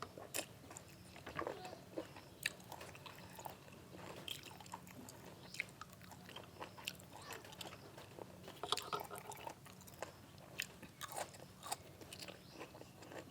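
A person chewing and biting into boiled field snail meat close to the microphone, with irregular soft crunches and wet mouth clicks.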